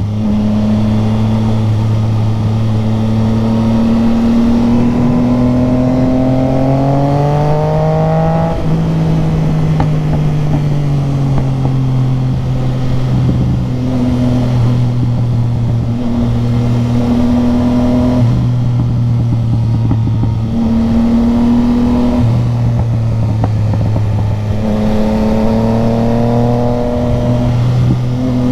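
Motorcycle engine running under way, its pitch rising as it accelerates from about four to eight seconds in, then dropping suddenly at a gear change. It then holds fairly steady with small dips and rises, and climbs again near the end.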